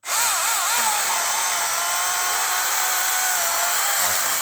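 Milwaukee M18 Fuel battery-powered chainsaw with a brushless electric motor, running at full speed through a cut in wood. The motor's whine wavers and dips in pitch during the first second as the chain bites, then holds steady.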